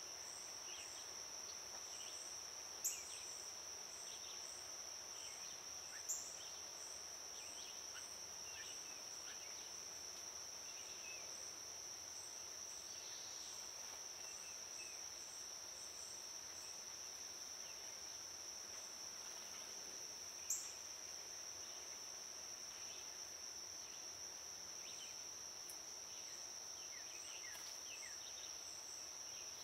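Insects chorusing: a steady high-pitched trill, with a second insect pulsing evenly above it, faint bird chirps here and there, and three sharp clicks.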